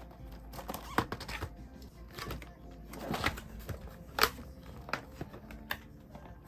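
Soft background music under handling noises from unboxing merchandise: rustling packaging and a scatter of sharp clicks and taps, the loudest about a second in and about four seconds in.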